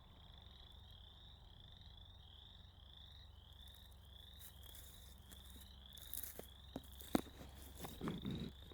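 A chorus of frogs calling: short, high calls repeating steadily about three times a second. Near the end come a few sharp knocks and a brief rustle.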